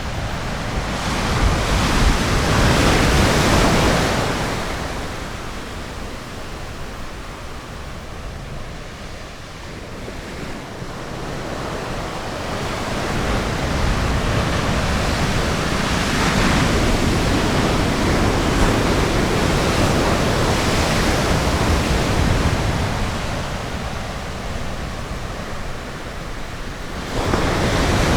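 Ocean surf breaking and washing up on a beach, in slow swells: a wave crashes about two seconds in, the sound eases, then builds again to a long loud stretch through the middle before easing and rising once more near the end.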